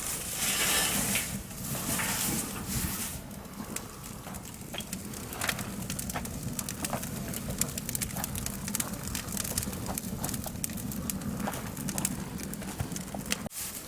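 Wood fire crackling with irregular sharp pops, after a short stretch of hissing at the start.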